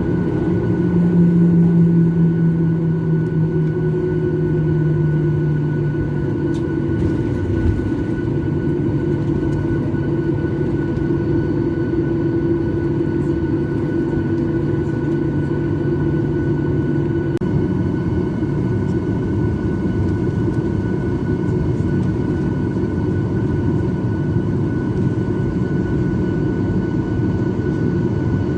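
Jet airliner engines heard from inside the cabin: a loud, steady rumble with a low engine tone that sinks slightly over the first few seconds, and a shift in the engine tones about two-thirds of the way through.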